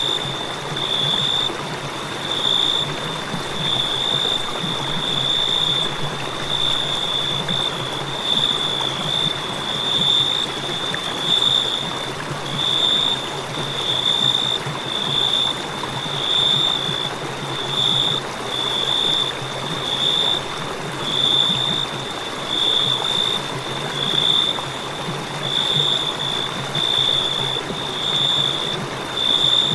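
Crickets chirping, a high trill pulsing about once a second, over a steady rushing background noise.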